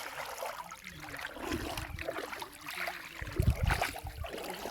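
Water sloshing and splashing in irregular small bursts, with a louder low thump a little past the middle.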